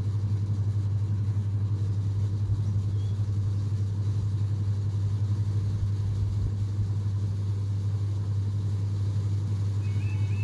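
A steady low rumble throughout, and near the end the level crossing's alarm starts: a quiet, fast-repeating high electronic tone, the sign that the crossing is activating for an approaching train.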